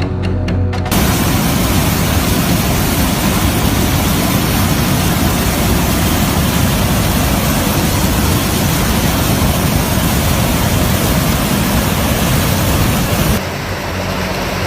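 Loud, steady rushing noise with no distinct tones. It starts abruptly about a second in and cuts off suddenly near the end.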